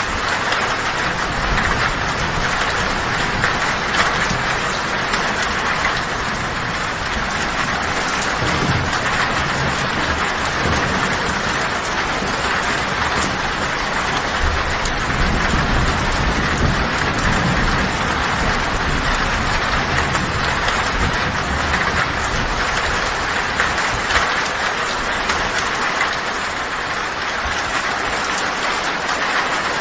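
Heavy rain falling steadily on a tin roof, with low thunder rumbling underneath that swells around the middle and fades out near the end.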